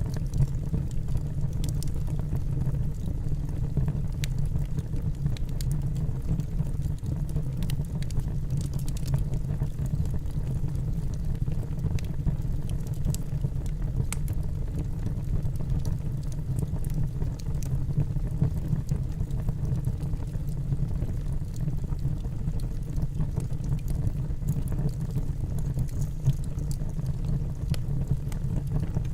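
Wood fire burning in a fireplace: a steady low rumble from the flames, with scattered sharp crackles and pops from the logs at irregular moments.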